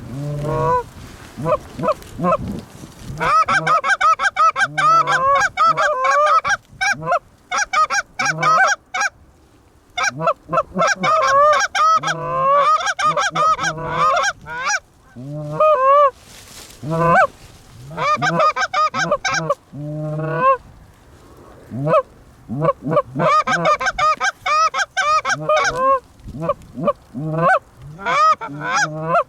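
Canada goose honking and clucking in loud, fast, overlapping runs, several voices at once, with brief pauses between runs.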